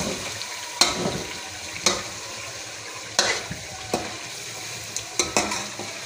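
Potatoes frying in a spiced oil masala in an aluminium pot: a steady sizzle, with a spoon scraping and knocking against the pot about every second as they are stirred.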